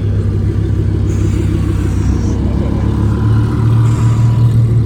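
Lamborghini engine running with a deep, steady rumble as the car pulls away, growing a little louder after about three seconds.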